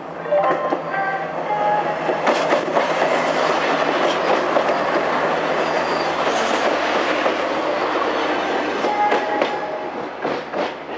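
X 72500 diesel railcar passing close by: engine running and wheels clicking over the rail joints. A few brief high tones sound about a second in, and the noise eases near the end.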